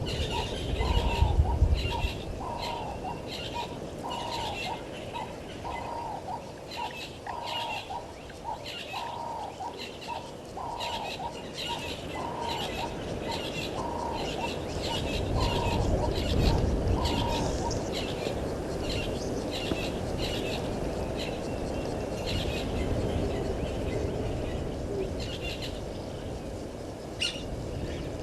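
Wild birds calling: one bird repeats a short call about once a second until a little past halfway, over steady high chirping from small birds. A low rumble swells near the start and again around the middle.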